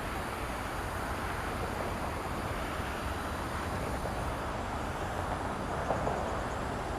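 Steady rushing roar of jet aircraft engines, even in loudness with a low rumble underneath.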